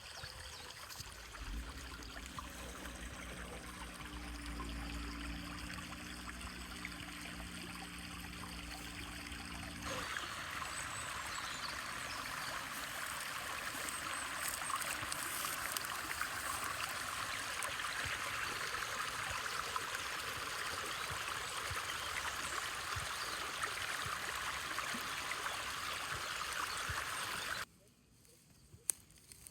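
A small stream trickling and flowing steadily, louder and brighter from about a third of the way in after an abrupt change, and cutting off shortly before the end. A low steady hum runs under the water in the first third.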